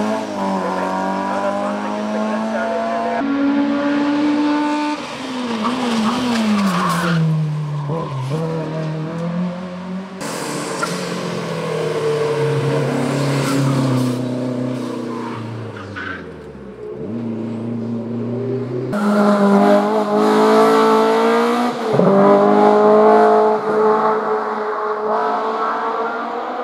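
Hill-climb racing cars at full throttle: high-revving engines climbing in pitch and dropping back at each upshift. Several cars pass by with a falling pitch, and the sound changes abruptly between cars.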